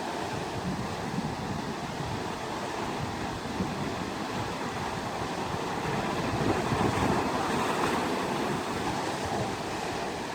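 Wind buffeting the microphone outdoors: a steady rushing noise with gusty low rumbles, swelling a little around six to eight seconds in.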